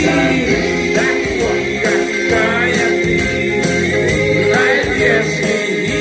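Pop-rock band music: an instrumental passage with a held, wavering lead melody over the full band.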